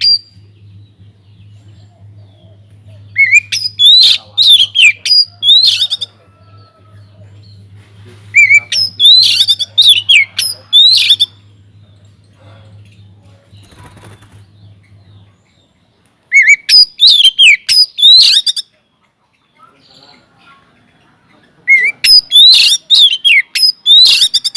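Oriental magpie-robin singing loudly in four bursts of rapid, high, sweeping notes, each a few seconds long, with pauses between. A faint low steady hum underneath cuts off about fifteen seconds in.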